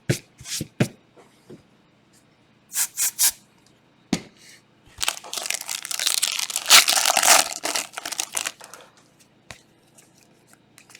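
Foil trading-card pack wrapper being handled and torn open with crinkling: a few short crackles in the first few seconds, then a longer stretch of tearing and crinkling from about five seconds in until near nine seconds.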